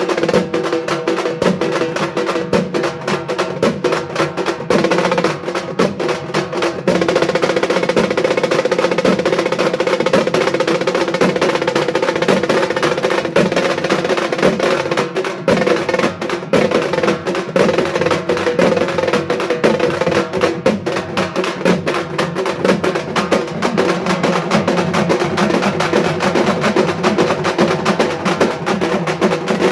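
Halgi frame drums beaten with two sticks in a fast, unbroken stream of strokes, the taut skins ringing under them. The playing steps up a little in loudness about seven seconds in.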